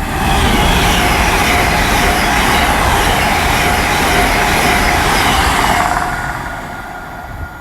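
A GWR Intercity Express Train (IET) passing at speed, sweeping in suddenly and loud, then fading away after about six seconds.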